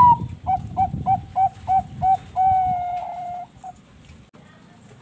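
Bangkok perkutut (zebra dove) cooing. It opens with a sharp higher note, runs into about seven short coos at roughly three a second, holds one long drawn-out note, and ends on a final short coo.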